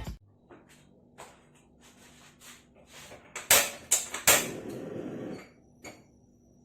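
Kitchen handling sounds: a series of light clicks and knocks, with two sharp, louder knocks about three and a half and four seconds in, followed by about a second of rustling noise.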